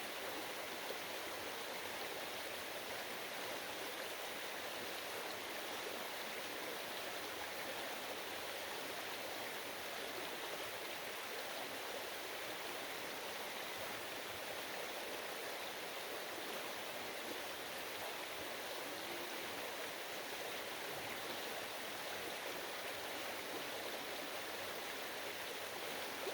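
Flowing stream water rushing steadily, an even, unbroken hiss of moving water.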